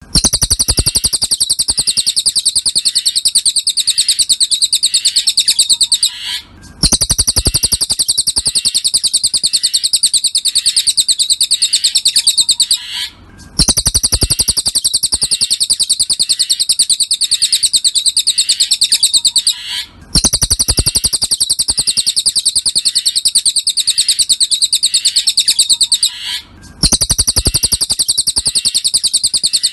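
Cililin songbird singing a fast, high-pitched chattering trill. It comes in near-identical phrases about six and a half seconds long, each broken by a brief gap, like a looped recording used to train caged birds.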